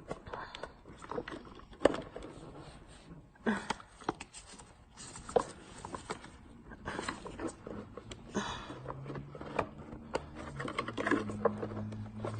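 Wire coat hanger scraping and knocking inside a clogged Bissell vacuum cleaner hose as it is worked through to dislodge packed dirt, in irregular scrapes and clicks. A low steady hum comes in about two-thirds of the way through.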